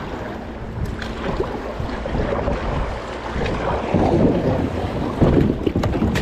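Rushing, churning river water around a kayak in rocky rapids, with wind buffeting the microphone and a few sharp knocks. The water grows louder about two-thirds of the way through.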